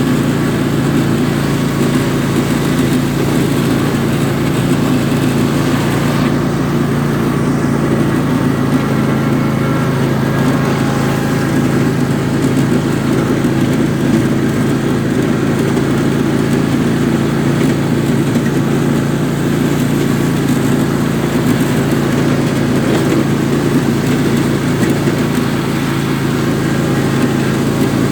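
Husqvarna riding lawn mower's engine running steadily while it is driven.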